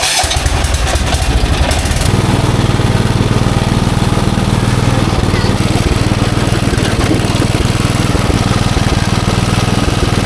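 Tractor engine running steadily and loud, its sound changing about two seconds in and then holding an even, low note.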